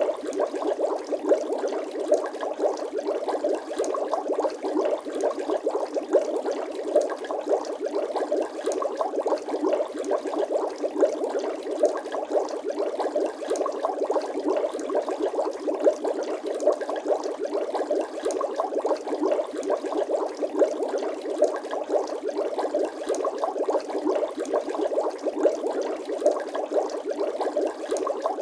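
Continuous bubble sound effect: a dense stream of small bubbling pops, like bubbles rising through water, running steadily without pause.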